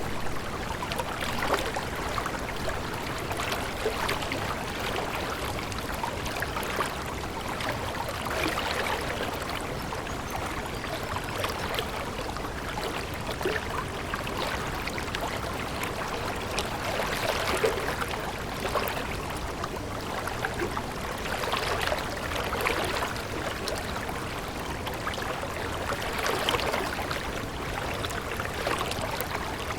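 Stream water running and splashing steadily, swelling a little every few seconds.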